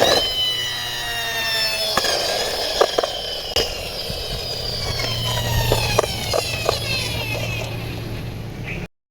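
Toy police helicopter's geared mechanism whining as it winds down, several pitches sliding slowly lower, with a few sharp plastic clicks from handling. The sound cuts off suddenly near the end.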